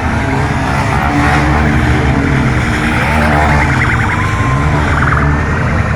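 Police vehicles driving past in a parade: a steady, loud rumble of engines, with a siren wailing up and down a few times.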